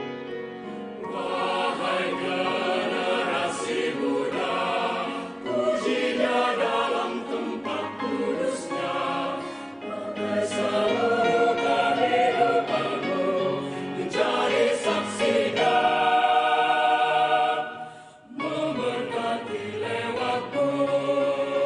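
A choir singing a gospel song in several voice parts, with a short break about eighteen seconds in before the singing resumes.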